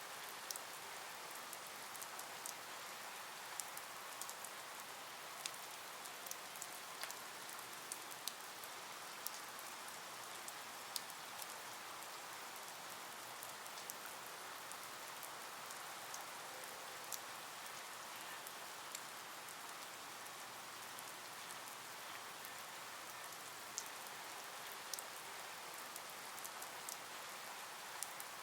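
Rain falling: a faint, steady hiss with scattered sharp ticks of drops striking a surface.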